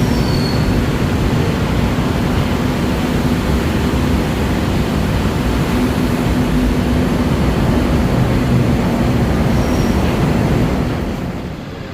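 Train running on its rails: a loud, steady noise with a low hum that eases off near the end.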